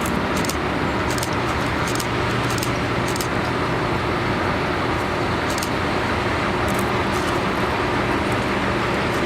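MLW/Alco six-axle diesel locomotives idling with a steady engine rumble, with scattered short clicks over it.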